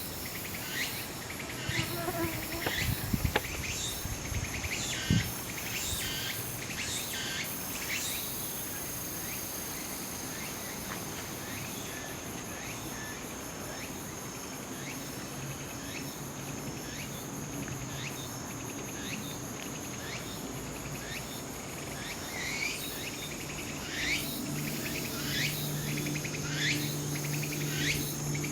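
Tsukutsukuboshi cicada (Meimuna opalifera) singing its rhythmic repeated phrase, which fades out mid-way and starts up again near the end, over a steady high-pitched insect drone. A couple of sharp knocks come a few seconds in.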